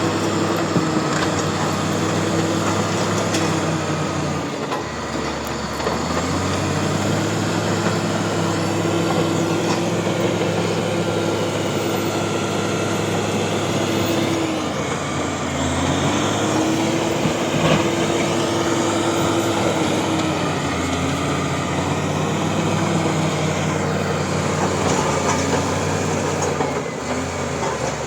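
Bulldozer's diesel engine running hard, its pitch sagging and picking back up several times as the load on it changes.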